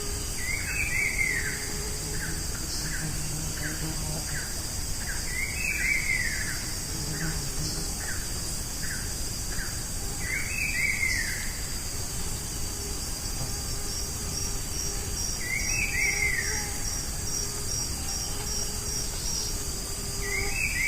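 Amazon rainforest canopy ambience: a steady high-pitched insect chorus, over which a bird repeats a short descending call about every five seconds. Through the first half a run of short, evenly spaced notes sounds about twice a second, and near the end a rapid high pulsing joins in.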